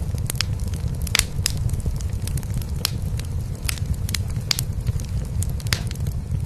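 Cat purring steadily in a low, pulsing drone, with a wood fire in a fireplace crackling over it in many sharp, irregular pops.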